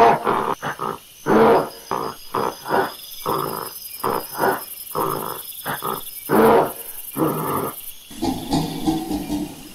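Gorilla calling in a rapid run of short, rough grunts and roars, two or three a second, the loudest about a second and a half in and again near six and a half seconds. For the last two seconds it changes to a steadier, lower rumbling call.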